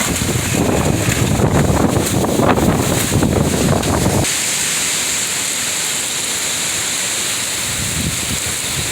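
Strong wind gusting and buffeting the microphone with a heavy low rumble, cutting off abruptly about four seconds in to a steadier hiss of wind.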